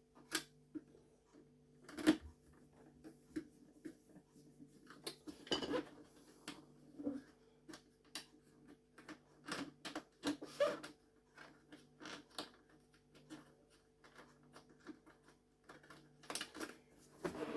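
Irregular clicks, taps and knocks of a Vax 6131t Multivax vacuum cleaner's plastic parts being handled and fitted back together during reassembly, over a faint steady hum.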